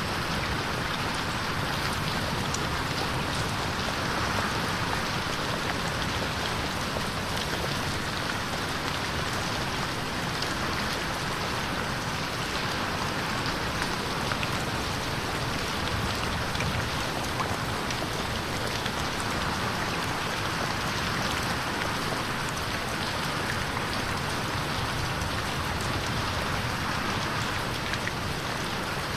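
Steady rain falling on a window, a constant hiss with scattered faint drop ticks.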